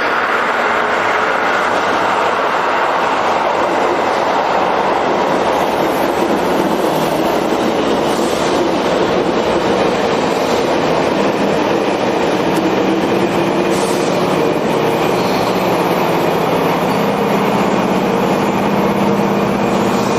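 Keio 6000 series electric train running through an underground section. A continuous loud rumble of wheels on rail, with a steady low hum coming up in the second half.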